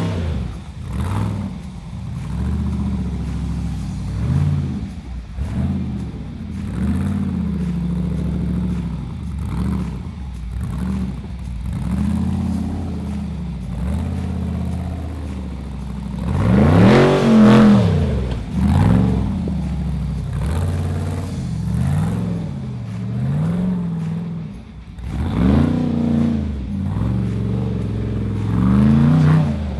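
Off-road Jeep engine revving up and down again and again under throttle, with its hardest rev about halfway through.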